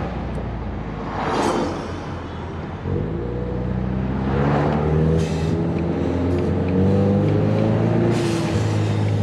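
Car driving at low speed: the engine runs with slowly shifting pitch over steady road noise, with two brief whooshes about one and a half and four and a half seconds in.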